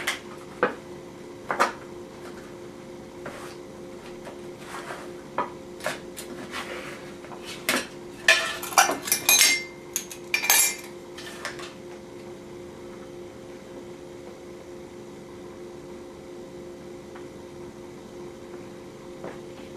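Measuring cup and spoon clinking and scraping against a mixing bowl as cocoa powder is scooped and measured out. The clinks are scattered through the first half and busiest about halfway through, over a steady low hum that goes on alone afterwards.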